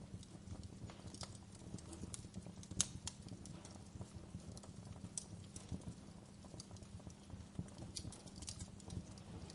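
Wood fire crackling in a fireplace: a steady low rumble of flames with irregular sharp pops and snaps, the loudest pop just under three seconds in.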